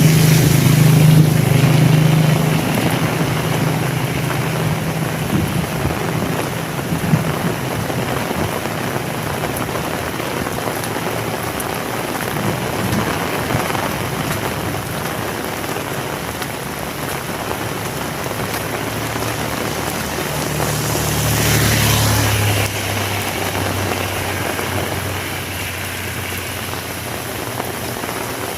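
Heavy rain falling steadily and hard. A low rumble underlies the first couple of seconds and swells again about twenty seconds in.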